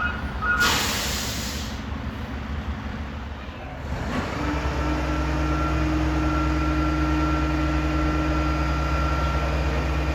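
Roll-off truck: its reversing beeper stops, a short burst of air hiss follows about half a second in, and from about four seconds the truck's engine settles into a louder steady drone with a high whine over it.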